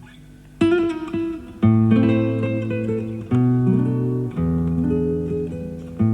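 Nylon-string classical guitar played live, heard from an FM broadcast recorded on cassette tape. After a soft, fading chord, a new phrase starts just over half a second in, with bass notes and chords plucked about once a second and left ringing under quicker treble notes.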